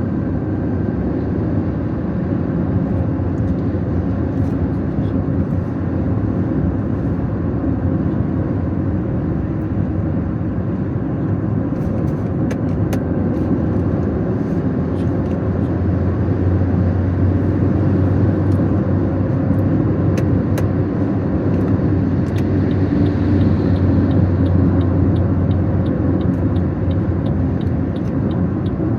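A car driving along, its engine and road noise making a steady rumble that grows somewhat louder and deeper about halfway through. A few light clicks come and go, and there is a faint regular ticking near the end.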